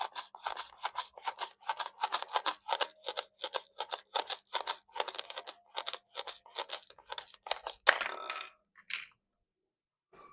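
Rapid cutting strokes through plastic toy fruit, about four or five a second. The loudest stroke comes near the end, then a couple more before the cutting stops.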